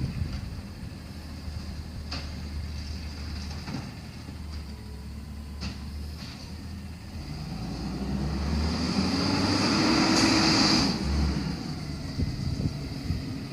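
Garbage truck diesel engine running low, with a few clanks, then revving up for about four seconds with a rising hiss and cutting back sharply about eleven seconds in, typical of the engine speeding up to power the hydraulics.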